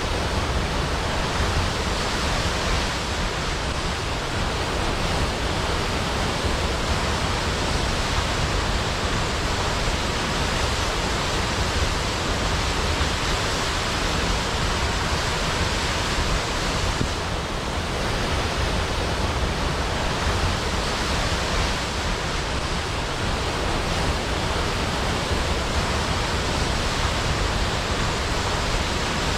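Large waterfall: a steady, even roar of falling water with no other sounds standing out.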